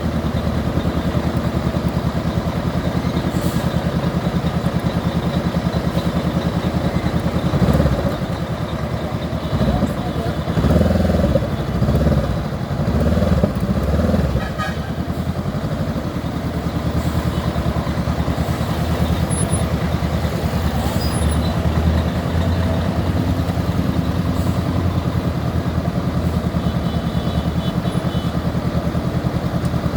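Honda CB 500X parallel-twin motorcycle engine running steadily under way. Louder, irregular sound rises over it for several seconds in the middle.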